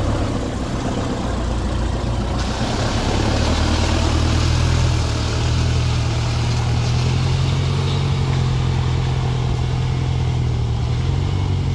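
Motor vehicle engine running steadily at low revs, its pitch edging up slightly around the middle. A steady hiss joins in about two and a half seconds in.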